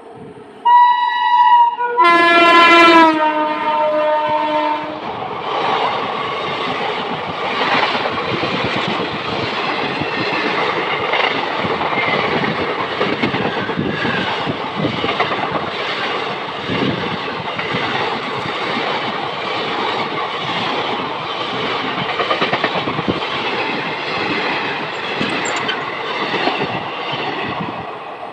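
The WAP-7 electric locomotive's horn sounds in a long blast that drops in pitch partway through. Then the coaches of the express rush past at speed, with a steady rumble and rapid wheel clatter over the rail joints.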